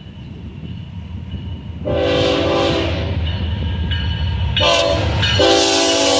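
Locomotive air horn sounding three blasts over the low rumble of a moving train. The first blast starts about two seconds in and lasts about a second, a short blast follows, and a third begins near the end.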